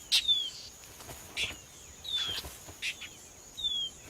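Mockingbird giving short, harsh scolding calls about five times in agitated alarm at a nest intruder. Three thin, falling whistles come between them, and a faint steady insect trill runs underneath.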